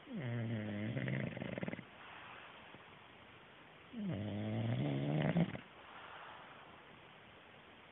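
English bulldog snoring in deep sleep: two long snores about four seconds apart, each under two seconds, starting with a dip in pitch and breaking into a fluttering rattle near its end.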